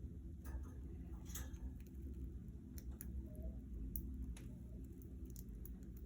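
Budgerigars moving about a cage: scattered light clicks and taps, irregular and a second or so apart, over a steady low hum.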